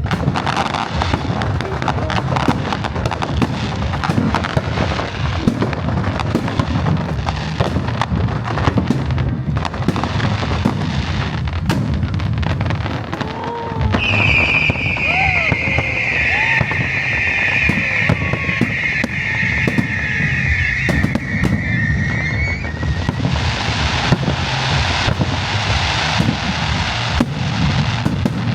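New Year's fireworks display: a continuous barrage of shell bursts and low booms with rapid popping. About halfway through, a dense high crackle of crackling-star shells joins in for several seconds.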